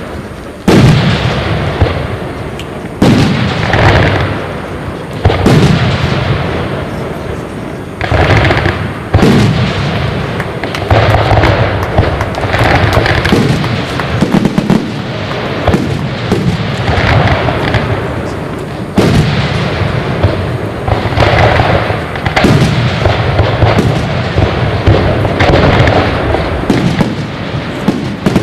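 Fireworks display: sharp, loud bangs of shells bursting every one to three seconds, each followed by a long echoing rumble and crackle, coming closer together in the second half.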